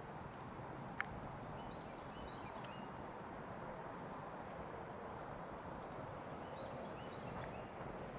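Small birds chirping in short, scattered high calls over a steady background rush, with one sharp click about a second in.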